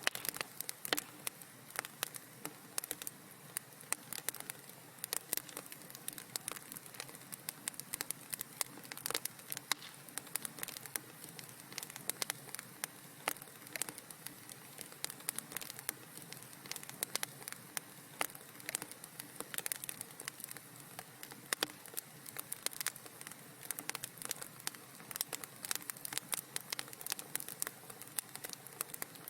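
Wood fire crackling in a fireplace: frequent sharp pops and snaps at irregular intervals over a soft, steady hiss.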